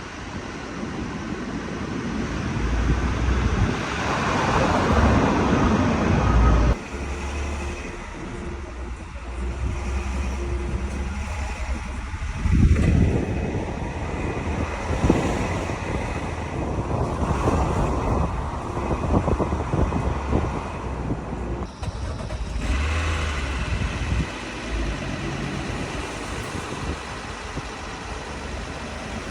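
BMW N52 straight-six engine of a 528i running, with outdoor noise around it. The owner is hunting a strange noise from the engine. A rising sweep about twelve seconds in, and the sound changes abruptly twice.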